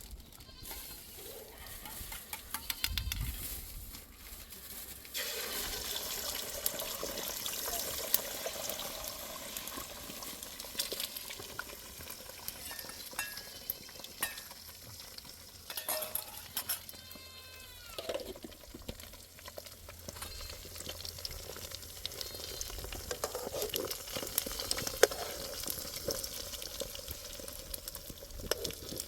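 Food sizzling in a pan while it is stirred, with scattered clicks and scrapes from the utensil; the sizzle grows stronger about five seconds in.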